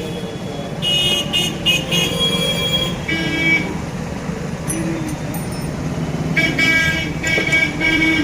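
Road traffic running steadily, with vehicle horns honking in repeated short blasts: a cluster about a second in, another around three seconds, and a longer run of honks from about six seconds on.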